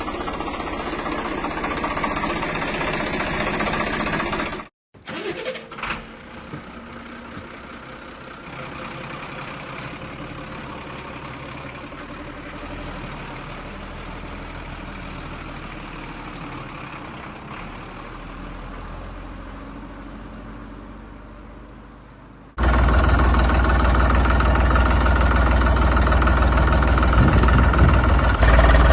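A mini tractor's engine running, in separate stretches. It is loud at first and cuts off sharply about five seconds in. It then runs quieter and steady, and comes back loud with a strong low rumble from about 22 seconds on.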